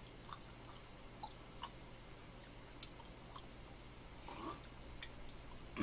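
Faint close-up mouth sounds of chewing soft, manju-like peach bread: scattered small clicks and smacks.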